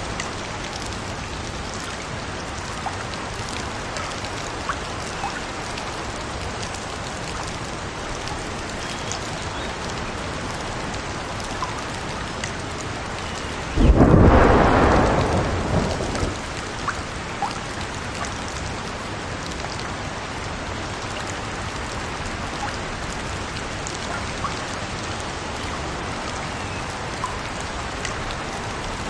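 Steady rain with scattered small ticks. About halfway through, a sudden thunderclap breaks in and dies away over about two seconds.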